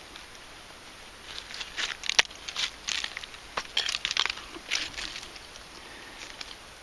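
Digging through dump soil and broken glass: a series of short crunches and scrapes over a few seconds, with one sharp click a little over two seconds in.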